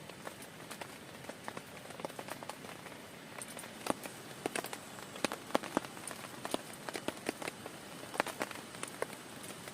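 Rain on a camping tarp: a steady hiss with irregular sharp taps of single drops hitting the sheet, several a second, some louder than others.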